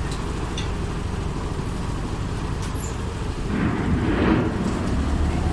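A steady low engine rumble that swells louder for about a second, roughly three and a half seconds in.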